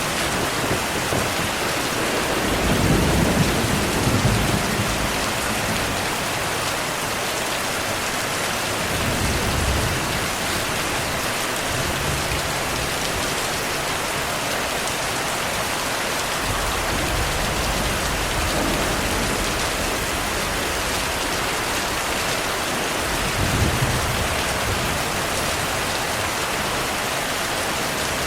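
Heavy steady rain with low rolls of thunder. The loudest rumble comes a few seconds in, and fainter ones come near the middle and near the end.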